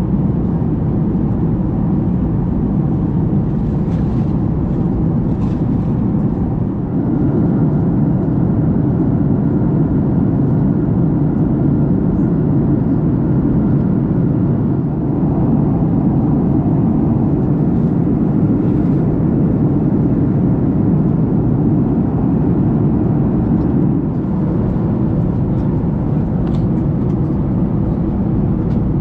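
Steady cabin noise of a Boeing 737 MAX 8 in cruise: a low, even rush of airflow and engine noise heard from an economy window seat, with a few faint ticks.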